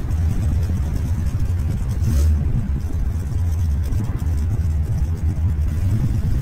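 Car engine rumbling low and steady while the car creeps along in a slow line of traffic.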